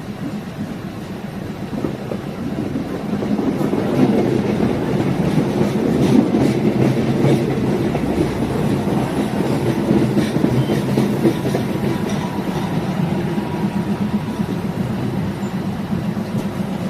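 Diesel multiple unit train running along the track: a steady rumble with the wheels clicking over rail joints, getting louder about four seconds in.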